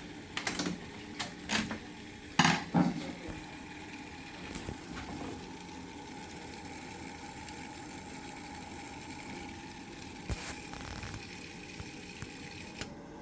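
Worcester-Bosch combi boiler running with a steady hum. A few sharp knocks come in the first three seconds, the loudest about two and a half seconds in.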